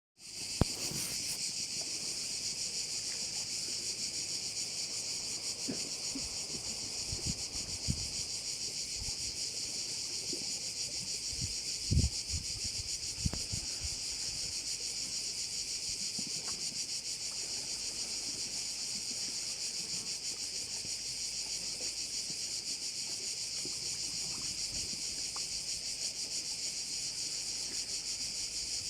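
A dense, unbroken chorus of summer insects, called cvrčci (crickets) here, shrilling steadily at a high pitch. A few soft low thumps break in, the loudest about twelve seconds in.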